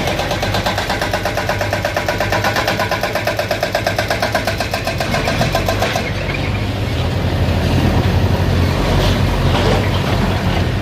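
An engine running with a steady rapid pulse and a strong low hum; about six seconds in its sound changes and grows slightly louder and rougher.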